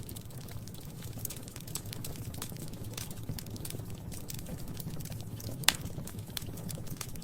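Wood fire burning in a fireplace: a steady low rumble with irregular crackles and one loud pop about five and a half seconds in.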